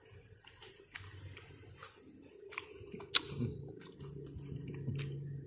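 Close-up chewing of crisp raw jicama coated in thick rujak sauce: crunching with wet mouth clicks and smacks. A low hummed "mm" comes in about four seconds in.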